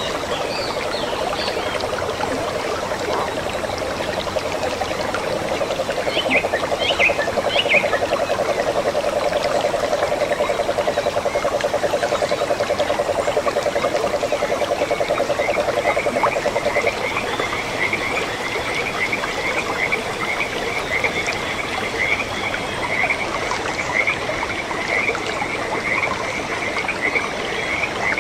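Frogs calling. A low, fast-pulsed trill is held until about seventeen seconds in, and a chorus of short, higher calls repeating continually takes over in the second half, over a steady background hiss.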